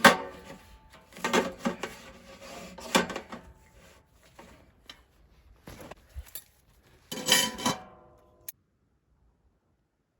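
Metal cookware and utensils being handled: a series of clanks and knocks, several of them ringing briefly, the loudest at the very start and near three-quarters of the way in. The sound cuts off abruptly to silence about two-thirds of the way through.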